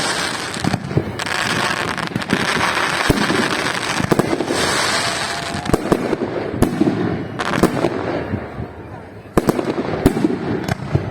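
Fireworks salute going off: repeated sharp bangs at irregular spacing, with a crackling hiss between them. The bursts thin out and grow quieter briefly, then pick up again with a loud bang about nine seconds in.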